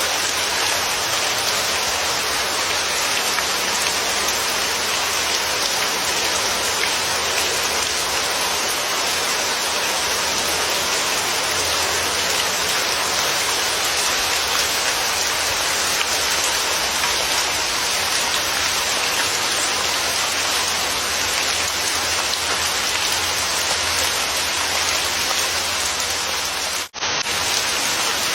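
Steady rain falling, an even hiss of drops with no thunder. Near the end the sound cuts out for a fraction of a second, then resumes.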